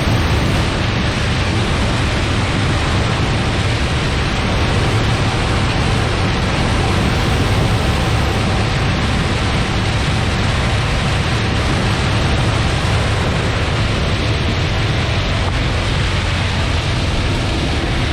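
Claas Lexion 740 combine harvester running steadily: a loud, even wash of noise with a low hum underneath.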